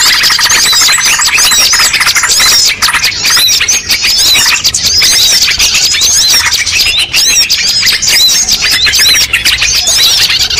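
A dense chorus of many small birds chirping and calling at once, with rapid overlapping high chirps that never stop. This is a mixed bird-lure recording of the kind used to draw wild birds in.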